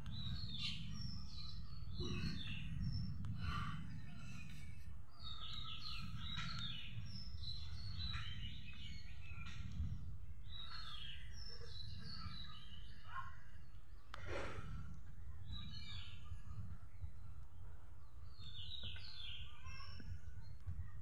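Small birds chirping and calling in repeated short bursts, over a steady low rumble. One sharp click about two-thirds of the way through.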